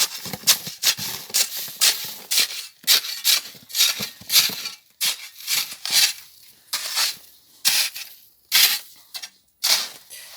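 A shovel scraping and tossing packed snow back into a hole, in quick repeated strokes, each a short crunchy scrape, somewhat under two a second.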